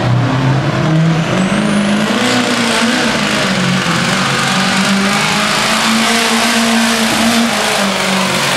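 Cummins diesel engine of a pulling pickup running at full throttle under the load of the sled: the engine note climbs over the first couple of seconds, then holds high and fairly steady.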